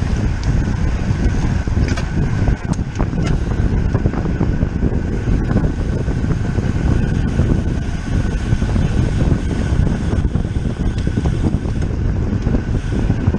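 Wind rushing over the microphone of a camera riding on a road bicycle at race speed: a steady low rumble with a faint steady high tone above it and a few brief clicks about two to three seconds in.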